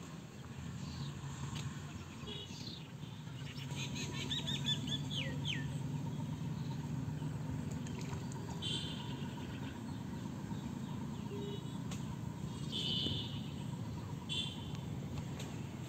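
Birds chirping in several short bursts of quick, high repeated notes, with a faint steady low hum underneath.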